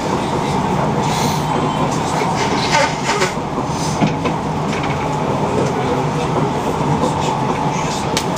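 Passenger train running at speed, heard from inside the carriage: a steady rumble with a few scattered clicks and knocks.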